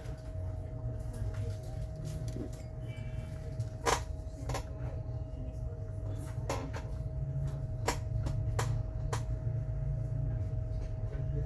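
A handful of short, sharp clicks at irregular intervals over a steady low hum and a faint steady tone.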